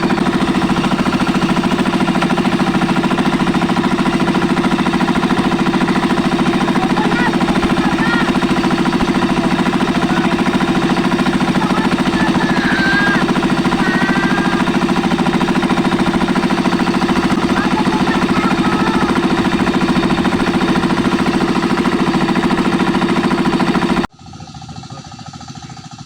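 Tractor engine running at a steady, even pace with a knocking beat, then cutting off abruptly near the end.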